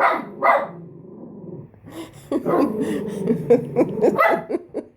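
A dog barking in agitation: two sharp barks, a low growl, then a long run of growling broken by louder barks.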